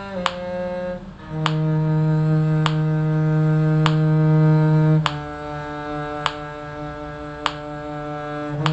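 Muted bowed strings playing a slow line in long held notes, the low part moving to a new note about a second in, about five seconds in and near the end. A sharp click marks a steady beat about every 1.2 s.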